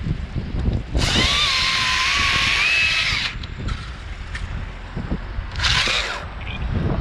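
Battery-powered top-handle chainsaw (Stihl MSA 161 T) run in two bursts: a longer one of about two seconds starting a second in, and a short one near the end. Its motor whine wavers in pitch. Gusty wind rumbles on the microphone throughout.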